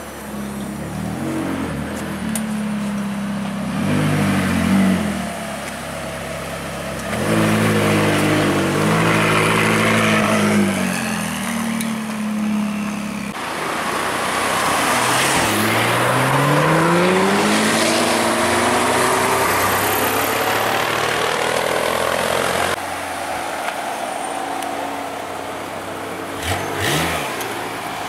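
Several performance car engines in a run of short clips: a McLaren twin-turbo V8 revving in blips, then a Porsche 911 Turbo flat-six accelerating away, its pitch climbing through the gears, then a BMW M5 E60 V10 running with a sharp rev blip near the end.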